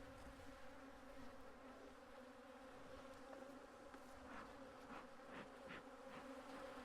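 Honeybees buzzing around their hives: a faint, steady hum, with a few short brief sounds in the second half.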